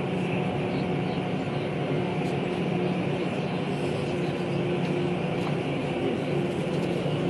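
Electric passenger train running at steady speed, heard from on board: a continuous rumble of wheels on rail with a steady hum over it.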